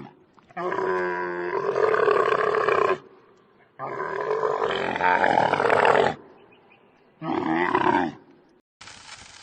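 An animal calling three times: two long calls of about two to two and a half seconds each and a shorter one near the end, followed by a steady hiss.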